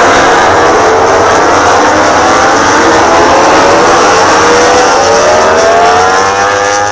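Several MotoGP racing motorcycles running at high revs and accelerating, their engine notes climbing slowly and steadily together.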